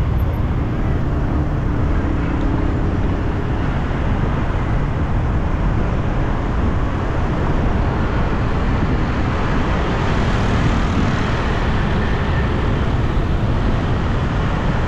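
Steady city traffic noise: a continuous rumble of passing road vehicles with an even hiss, with no single event standing out.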